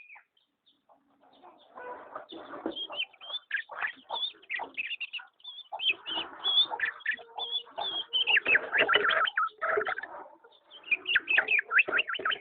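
Birds calling: a busy run of short chirping and twittering notes, starting after a moment of quiet and thinning briefly near the end.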